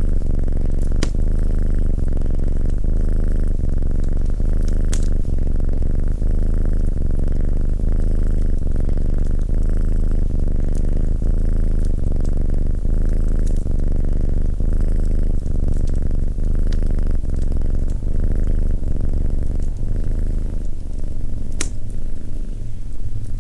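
Domestic cat purring close to the microphone: a loud, steady, low rumble. A few sharp crackles from the fireplace come through, the clearest about a second in, about five seconds in and near the end.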